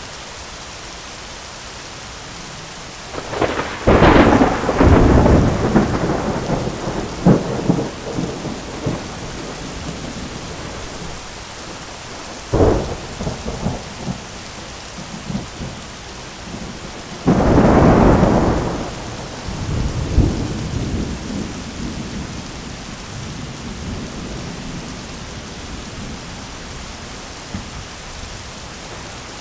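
Thunderstorm: steady rain hiss with three peals of thunder. A long crash with rolling rumbles comes a few seconds in, a short sharp crack follows midway, and another loud crash a few seconds later rumbles slowly away.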